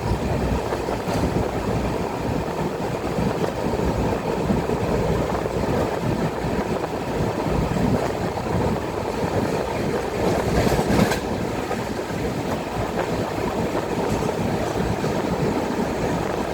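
Steady rumble of a moving vehicle, with wind noise on the microphone and a brief rattle about eleven seconds in.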